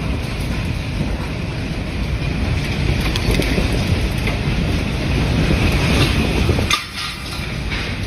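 Storm wind rushing and buffeting the microphone in a loud, low rumble, with a few sharp ticks of debris or rain. It drops suddenly about seven seconds in, then picks up again a little quieter.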